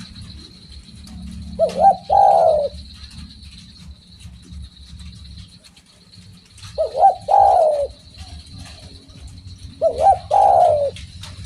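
Spotted dove (derkuku) calling: three coo phrases a few seconds apart, each two quick short notes followed by a longer quavering coo.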